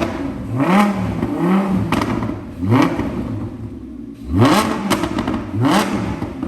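Audi R8 V10 Plus's naturally aspirated V10, fitted with a new Quicksilver aftermarket exhaust, blipped from idle about five times. Each rev rises quickly and falls back to idle.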